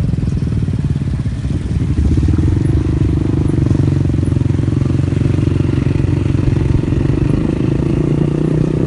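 Vehicle engine running steadily under way, picking up and getting louder about two seconds in.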